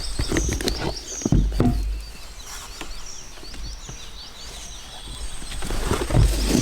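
A bird singing a repeated short, high chirp, about two notes a second, over low thumps and rustling close by, loudest about a second and a half in and again near the end.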